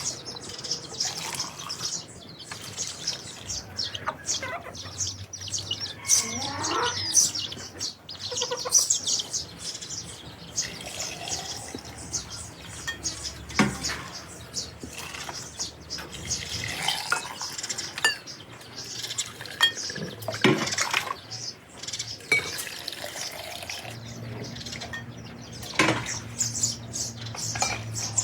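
Small birds chirping, with many short high calls overlapping throughout and a few sharp clicks or knocks.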